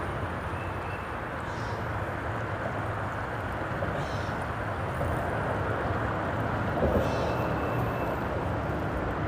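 Steady rumble of road traffic on a freeway bridge overhead, a continuous hum and wash of passing vehicles.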